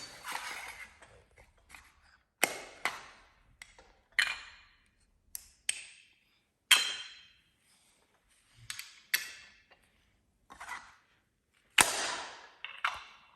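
Hard plastic Lego Duplo pieces knocking and clacking as they are handled: about a dozen separate sharp clacks at irregular intervals, some in quick pairs.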